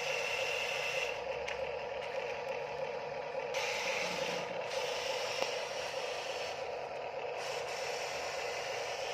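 Huina RC dump truck's small electric motors and plastic gearboxes running with a steady whine and rattle. A higher-pitched whine cuts in and out several times as the functions are worked.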